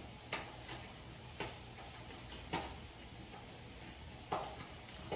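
Spam slices frying in a pan: a faint steady sizzle with a handful of sharp, irregularly spaced pops.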